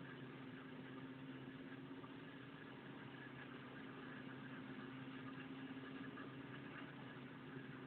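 An engine running steadily at idle, a faint, even hum with no change in speed.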